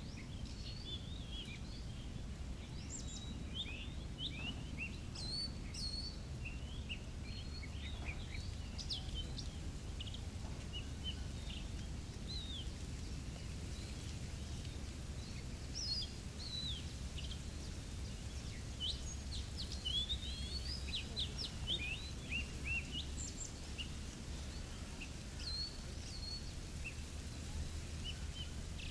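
Birds chirping and calling: many short, high chirps and quick whistled notes, scattered irregularly, over a steady low rumble.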